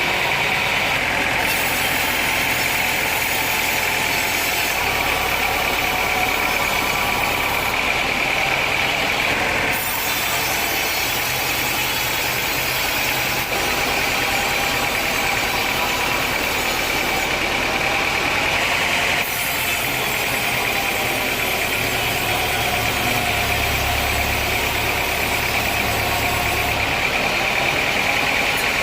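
Sawmill machinery running steadily: an engine drone under a constant high whine, with the texture changing abruptly a few times.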